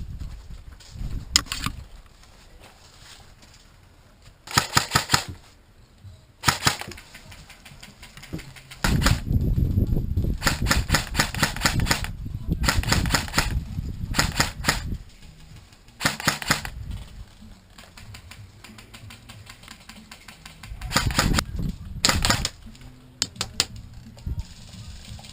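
Airsoft electric gun firing full-auto in several rapid bursts of fast, even clicks, with a longer stretch of fire near the middle. Wind rumbles on the microphone beneath.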